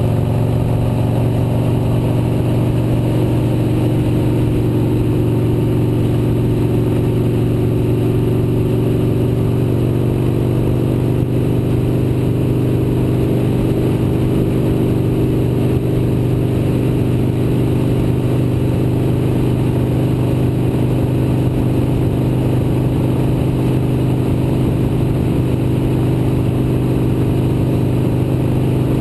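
Motorcycle engine running steadily at cruising speed, an even drone whose pitch shifts slightly about ten seconds in.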